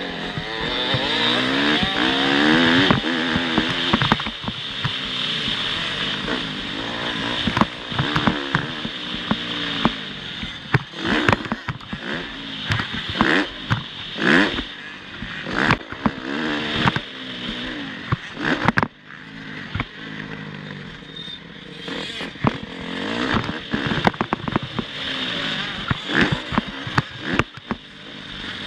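Motocross bike engines revving up and down as the throttle opens and closes, with frequent sharp knocks and clattering cracks through the run.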